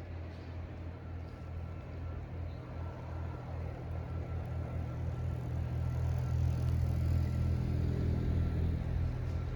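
Car engine running with a steady low drone that grows louder about halfway through.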